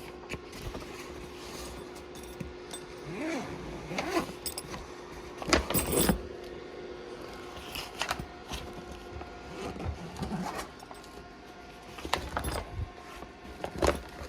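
Rummaging through a bag: scattered rustles, clinks and knocks of items being shifted about, over a faint steady hum.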